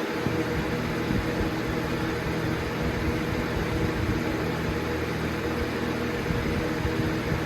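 Lasko Galaxy box fan, model 4733, running: a steady rush of air over an even electric motor hum.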